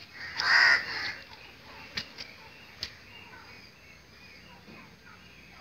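A bird's single harsh call about half a second in, followed by two faint sharp clicks.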